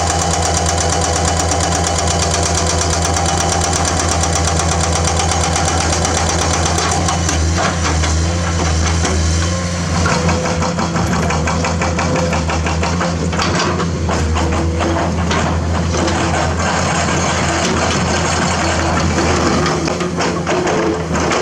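Komatsu hydraulic excavator's diesel engine running steadily, with scattered clanks and knocks of metal and rock from about seven seconds in.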